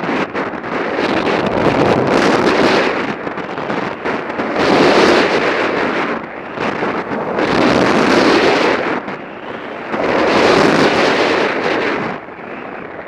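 Skis carving turns on firm, smooth snow, with wind rushing over the microphone. A loud scraping rush swells and fades about every three seconds, one surge per turn.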